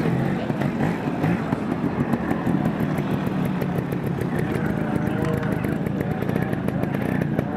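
Motorcycle engines running steadily, with faint voices in the background.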